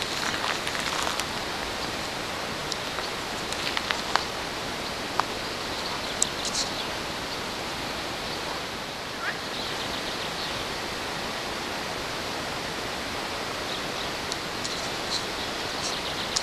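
Steady rush of flowing water, with scattered short sharp ticks over it.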